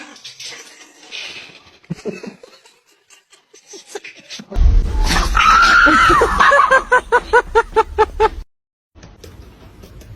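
A high-pitched held cry and then a quick run of pitched ha-ha bursts, like a person laughing, over a loud low rumble. It cuts off suddenly near the end.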